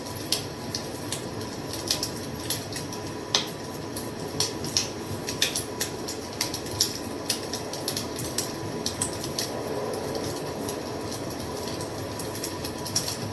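Wood fire crackling: sharp irregular pops and snaps, several a second at times, over a steady hiss of burning.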